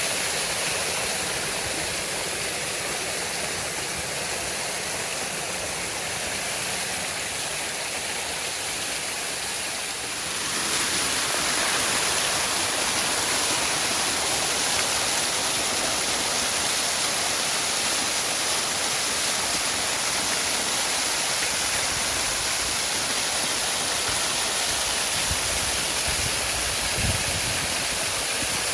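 Waterfall: a steady rush of falling water that grows louder and fuller about ten seconds in, with a few low thumps near the end.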